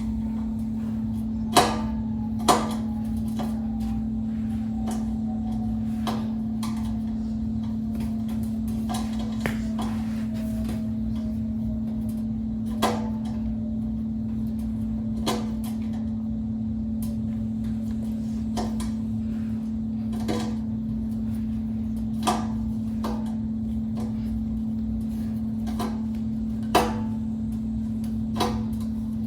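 Scattered clicks and knocks of a screwdriver and metal fan parts as tight screws holding a box fan's motor are worked loose, over a steady low hum.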